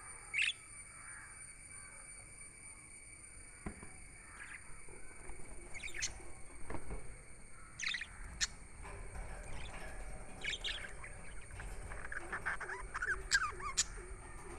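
Pet budgerigars chirping: scattered short chirps at first, then a run of quicker, closer chatter over the last few seconds.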